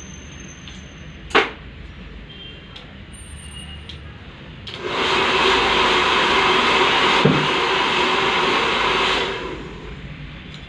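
A sharp click a little over a second in. About halfway through, a hand-held blow dryer starts, runs as a steady rush of air with a low hum for about four and a half seconds, and stops.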